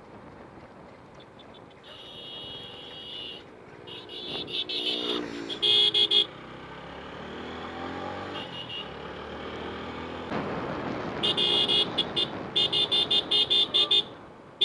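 Vehicle horn honking over motorcycle road and wind noise: a few honks early, a longer blast around the middle, then a run of many short rapid toots near the end.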